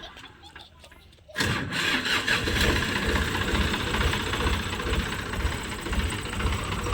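A tractor's diesel engine comes in suddenly about a second in and runs steadily with a low, rapid chugging.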